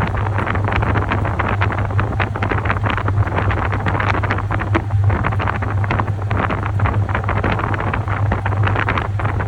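Top-loading washing machine running, water sloshing and splashing in the tub with a steady motor hum underneath.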